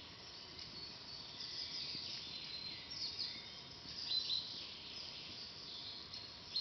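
Small forest birds chirping and twittering in short calls over a steady high hiss, the brightest calls coming about three and four seconds in.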